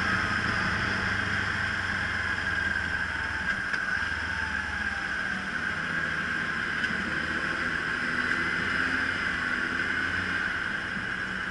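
Kawasaki Ninja 300's parallel-twin engine running at low, fairly steady revs as the motorcycle rolls along a city street, under a constant hiss of wind and road noise on the onboard microphone.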